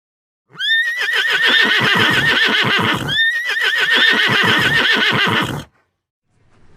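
Horse whinnying twice: two long, shaking whinnies back to back, each about two and a half seconds, identical in shape.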